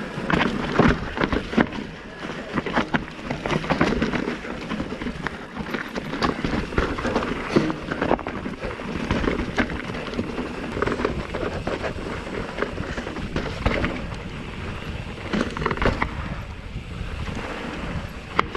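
2019 Commencal META Trail 29 mountain bike descending a rough trail: tyres and frame rattle and clatter over rocks in many short knocks, with wind rushing over the microphone.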